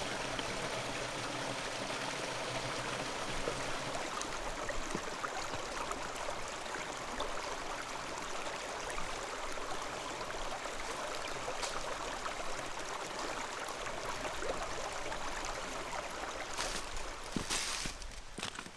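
Steady rushing of running water, like a stream. Near the end come a few short noises.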